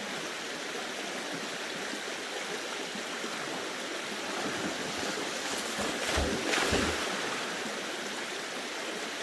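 Creek water rushing and burbling over rocks, steady throughout, with a brief louder stretch of splashing and low thumps about six seconds in.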